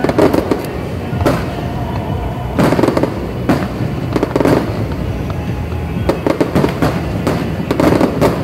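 Aerial fireworks going off in clusters of sharp bangs and crackles, a burst every second or two, over steady background music.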